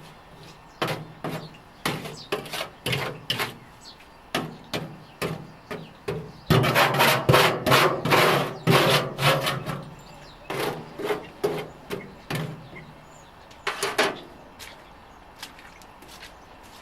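Hand scrubbing of the inside of a parts washer tank: repeated short scraping strokes, about two a second. The strokes grow louder and come thick and fast in the middle, then thin out near the end.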